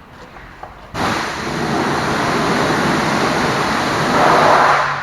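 High-pressure washer jet spraying water onto a truck: a loud, steady hiss that starts abruptly about a second in and stops near the end.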